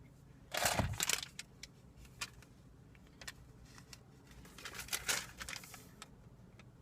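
Intermittent rustling and short clicks, as of something being handled, over a faint low steady hum.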